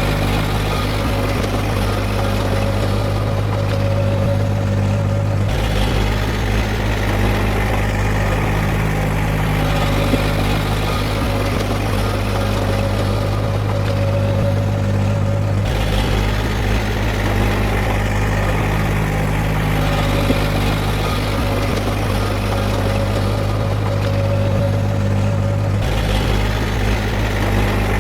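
Heavy diesel engine of earthmoving machinery running steadily with a low hum. The sound changes abruptly about every ten seconds, the same stretch seemingly repeating.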